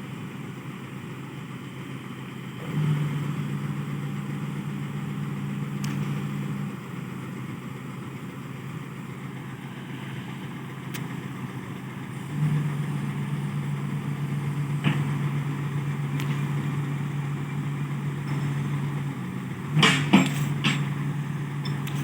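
Heavy diesel engine running steadily, with two longer spells where it runs louder, a few seconds in and again from about twelve seconds. A couple of sharp metallic knocks come near the end.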